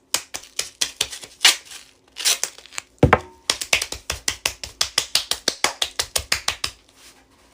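A fast series of sharp clicks or taps, irregular at first, with a low thud about three seconds in, then a steady run of about five a second that stops near the end.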